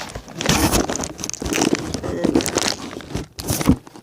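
Close-up crinkling and rustling of paper and cardboard being handled, with a sharp knock near the end.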